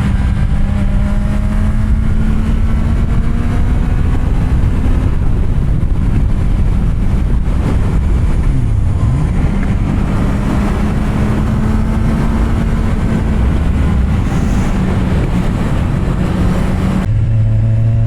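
Kawasaki Z750R's inline-four engine with an SC-Project aftermarket exhaust, heard while riding at steady revs. About nine seconds in, the pitch dips briefly and climbs back, and near the end it drops abruptly to a lower, steady note.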